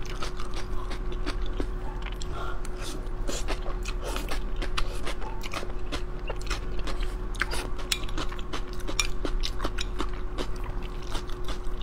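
Close-miked eating: crunchy chewing of pickled vegetables mixed with the clicks and scrapes of a metal spoon against a glass container, many short sharp clicks throughout.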